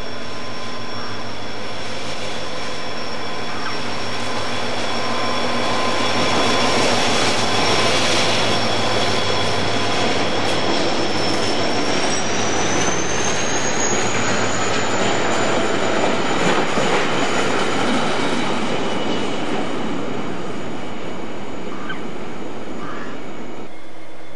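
Irish Rail 071 class diesel locomotive passing at speed, followed by a long rake of flat wagons loaded with concrete sleepers rumbling and clattering past, loudest in the middle. A thin high ringing tone runs through the passing and rises in pitch about halfway through.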